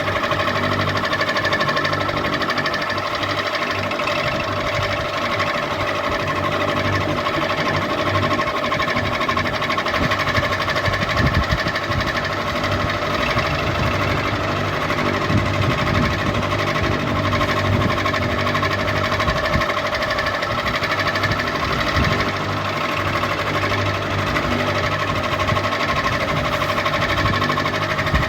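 Ceiling fan running steadily: a constant motor hum with a few held tones and a fast, even mechanical rattle.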